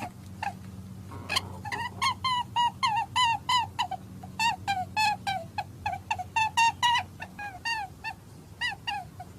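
An animal calling over and over in short, high, arched calls, about three a second, with a steady low hum underneath.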